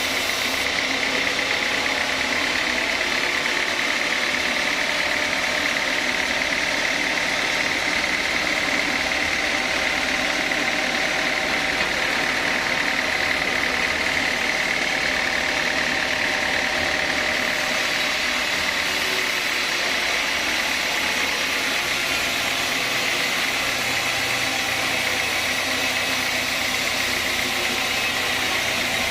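Sawmill saw running steadily, a constant machine noise with a steady high-pitched whine through it.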